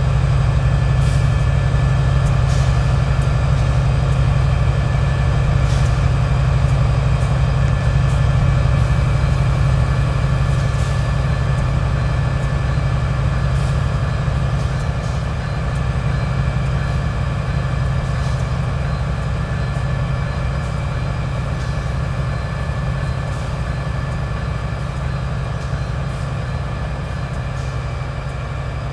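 Diesel locomotive engine running steadily with a deep, even hum, slowly getting quieter over the stretch.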